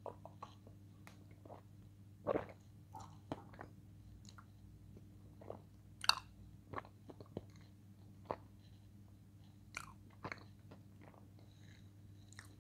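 A person chewing food close to the microphone: soft, irregular mouth smacks and small crunches, with a louder one about two seconds in and another about six seconds in.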